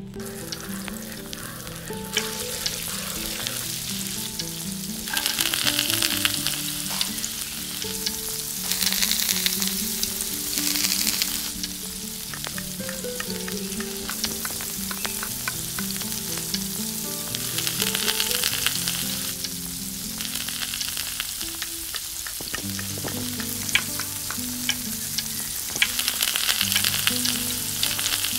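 Hot oil sizzling in a miniature pan as food is fried and stirred, with small clicks of the utensil against the pan. The sizzle swells and fades several times. Background music with a melodic line plays throughout.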